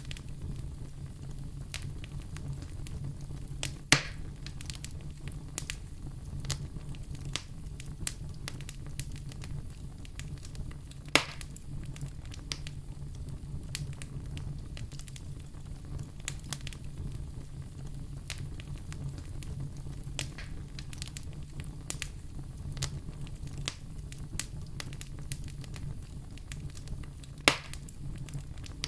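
Wood fire crackling in a fireplace: a steady low rumble with frequent small crackles, and three loud pops about four seconds in, about eleven seconds in, and near the end.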